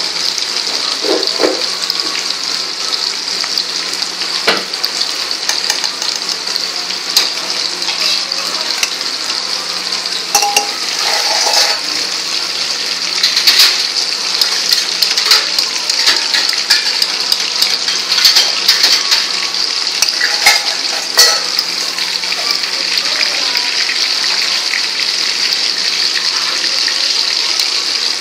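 Green capsicum pieces sizzling in hot oil in a steel wok, a steady hiss, with a steel ladle now and then clinking and scraping against the pan.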